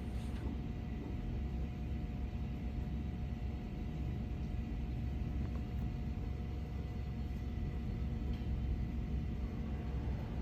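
A steady low rumble with a faint, even hum above it.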